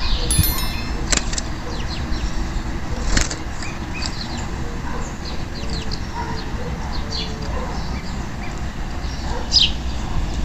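Short scattered chirps and calls from a canary over a steady low rumble, with one sharper chirp near the end.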